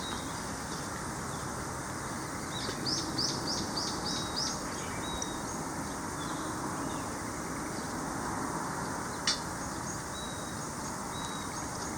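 Birds chirping and singing over a steady outdoor hiss, with a quick run of about six repeated high notes a few seconds in. A single sharp click comes near the end.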